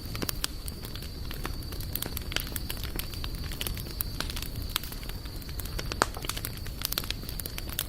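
Wood bonfire crackling and popping in irregular bursts, with one sharper pop about six seconds in, over a low steady rumble.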